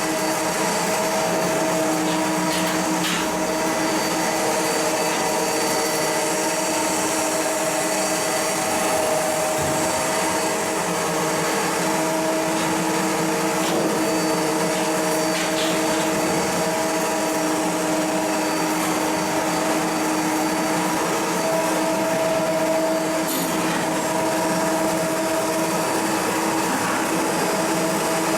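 Steady machinery running, a constant whirring hum with a held whine and hiss and a few faint clicks and knocks.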